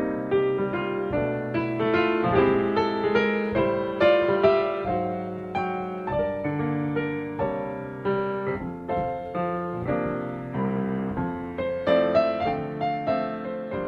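Background piano music: a steady stream of gently struck notes.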